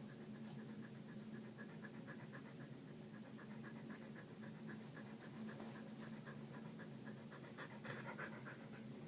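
Yorkie panting rapidly in an even rhythm of short huffs, several a second, like an engine's starter cranking.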